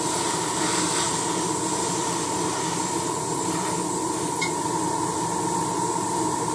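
Airbrush compressor running steadily with the hiss of air from the airbrush as paint is sprayed, and one small click about four and a half seconds in.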